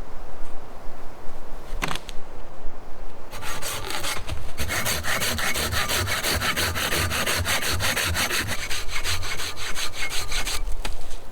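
Hand saw cutting through wood in steady back-and-forth strokes, starting a few seconds in and stopping shortly before the end, after a single knock.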